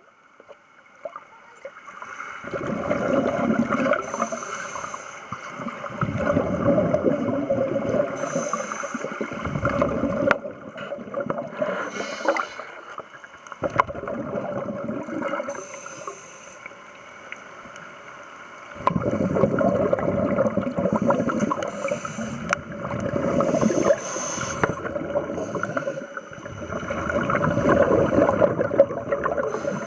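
Scuba divers' exhaled bubbles gurgling from their regulators, heard underwater: bursts of two to six seconds that come and go with each breath, with quieter breaks between them.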